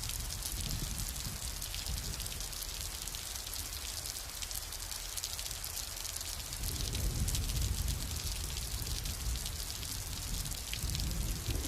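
Steady summer rain, a continuous hiss with many individual drops pattering. A low rumble of distant thunder sits underneath and swells about halfway through.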